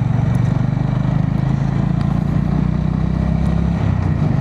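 Honda GB350S's air-cooled single-cylinder engine running at a steady cruise with a rapid pulsing beat, heard from inside the rider's helmet over wind and road noise.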